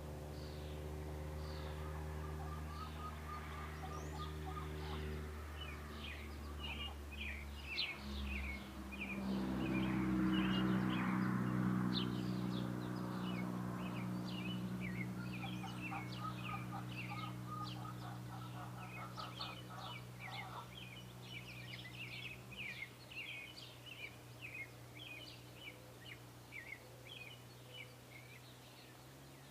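Small birds chirping busily in quick short notes throughout, over a low steady engine hum that swells to its loudest about ten seconds in and fades away after about twenty seconds.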